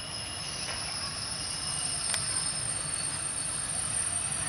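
Bangladesh Railway diesel-hauled passenger train rolling slowly, with a steady high-pitched squeal from its wheels and brakes over a low rumble, and one sharp click about two seconds in.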